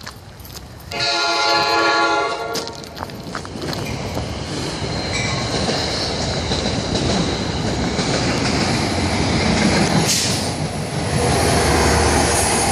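A train horn sounds suddenly about a second in, a loud chord held for nearly two seconds. It is followed by the steady loud rushing rumble of a train running along the track.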